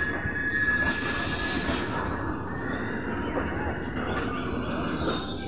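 Freight train wagons rolling past at speed: a steady rumble and rattle of wheels on rail, with a thin high wheel squeal that fades out about two seconds in.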